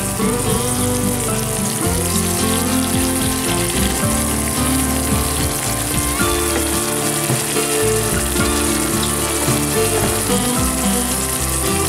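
Sliced onions and green chilies sizzling steadily as they fry in hot oil in a pan, under background music.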